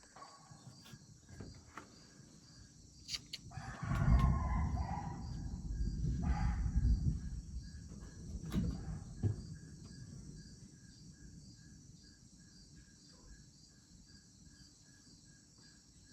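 Low rumble of thunder swelling about four seconds in and fading over several seconds, with an animal call over the start of it. Insects chirp in a steady pulse throughout.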